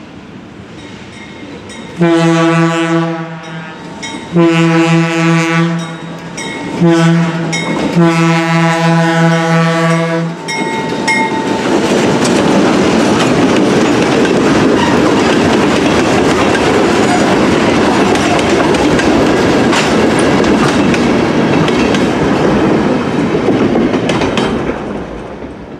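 Alco RS32 diesel locomotive sounding its horn for a grade crossing in the standard long, long, short, long pattern, the last blast held longest. It then passes close by, its 16-cylinder Alco 251 engine running, with covered hopper cars rumbling and clattering over the rail joints, fading away near the end.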